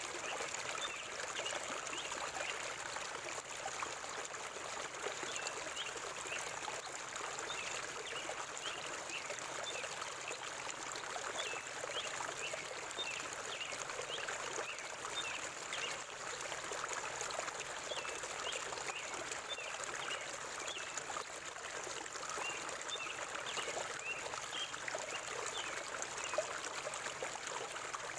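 River water flowing steadily over stones, with many short, high bird chirps scattered throughout.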